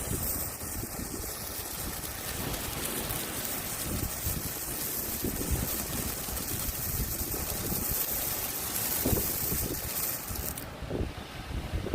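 Hand-held firework spraying sparks with a steady hiss that stops abruptly near the end as it burns out, over wind buffeting the microphone.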